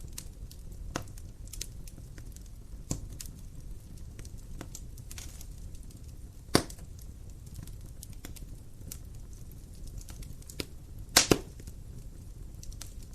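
Wood fire crackling in a fireplace: irregular sharp pops and snaps over a steady low rumble. A loud pop comes about six and a half seconds in, and a louder double pop about eleven seconds in.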